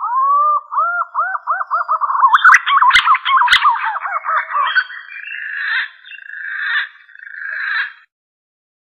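Green pigeon (punai) song played as a hunting lure call: a run of whistled, arching notes that come faster and climb in pitch, then a few harsher buzzy notes. Two sharp clicks come about three seconds in.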